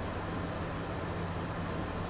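Steady cockpit noise of a Beechcraft Premier jet in the climb: an even rush of airflow with a low steady hum underneath.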